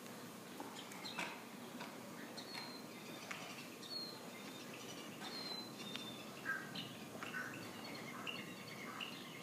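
Small birds chirping: short high chirps and brief downward-sliding calls come several times a second, over a faint steady background hiss.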